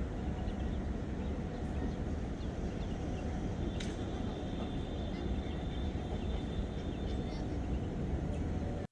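Steady low outdoor rumble, like wind on the microphone or distant traffic, with a faint thin high tone in the middle.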